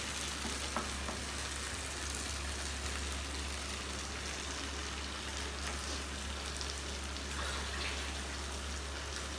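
Chicken and masala sizzling in butter on the stove: a steady frying crackle with a few faint clicks, over a steady low hum.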